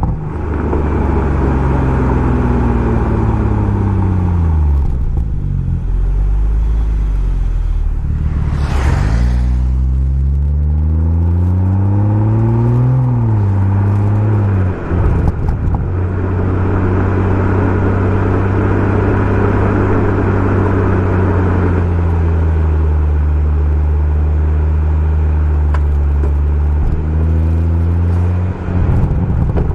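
BMW M140i's turbocharged straight-six through a Remus aftermarket exhaust, driven on the road. The engine note falls as the car slows over the first few seconds, then rises under acceleration for a few seconds and drops sharply as the driver lifts off. It then holds a steady cruise and climbs again near the end. A brief rush of noise sounds about nine seconds in.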